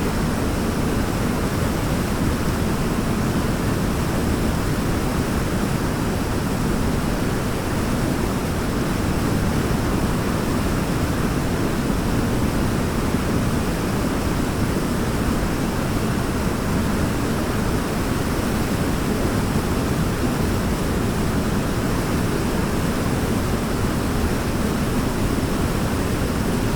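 Waterfall: a steady, unbroken rush of falling water, strongest in its deep low range.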